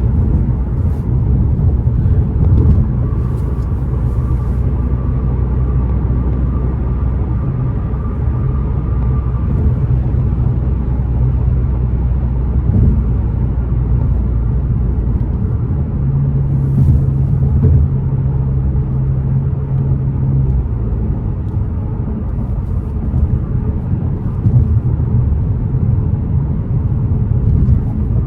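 Ford Mustang's turbocharged 2.3-litre four-cylinder engine and road noise while driving, heard from inside the cabin as a steady low rumble. For a few seconds past the middle the engine holds a stronger, steady hum.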